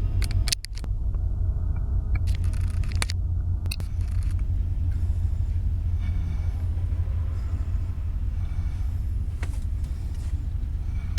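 Freight train rolling past at close range: a steady low rumble, with scattered sharp clanks and brief squeals from the cars.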